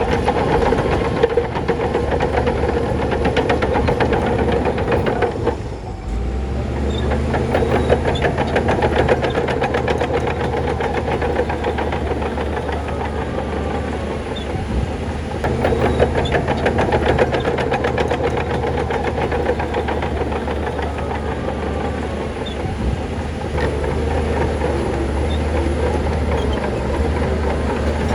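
Heavy diesel engine of a crawler bulldozer running steadily under load, with a dense metallic clatter from its tracks; the sound dips briefly about five and a half seconds in, then picks up again.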